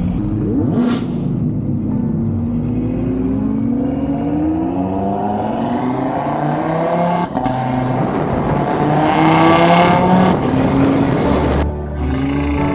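Supercar engines accelerating hard, their pitch rising in repeated pulls with a brief break about seven seconds in and the loudest pull near the end.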